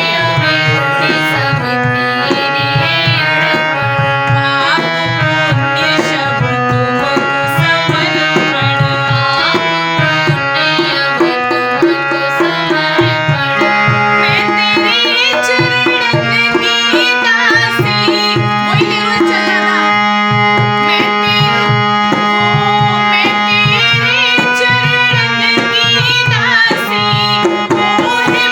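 Tabla playing a fast, steady rhythm under a melodic line of held and gliding notes, in Indian devotional music. About halfway through, a low note starts and is held under the melody.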